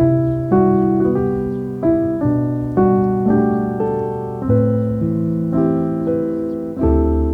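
Background piano music: a slow melody of single struck notes with chords, each note fading before the next.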